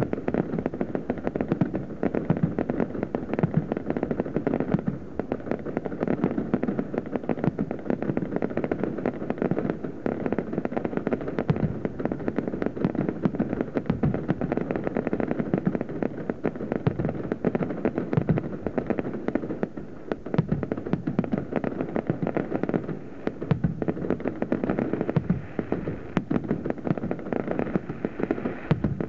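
Fireworks display: a dense, unbroken barrage of shell bursts and rapid crackling pops, easing briefly about two-thirds of the way through.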